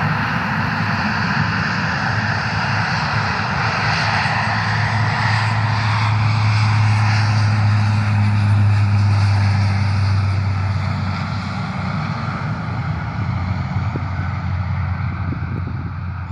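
An airplane passing by, its engine sound a steady low hum under a rushing noise that builds to a peak about eight seconds in and then fades.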